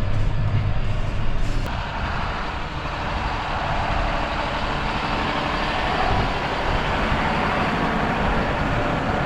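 John Deere 6145R tractor's six-cylinder diesel engine running while blading snow. About two seconds in, its low hum gives way to a brighter, steady rushing noise.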